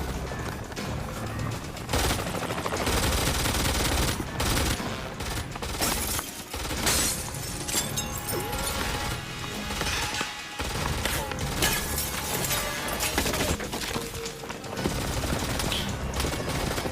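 Film shoot-out soundtrack: a long, dense exchange of gunfire with a musical score underneath.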